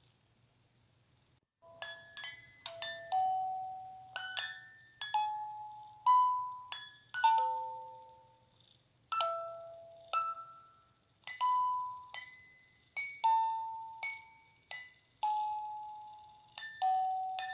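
Slow lullaby melody played on bell-like chime tones, each note struck and ringing out before the next. It begins after a short silence about a second and a half in.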